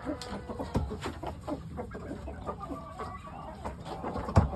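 Chickens clucking, with small knocks and rustles of handling and one sharp thump near the end.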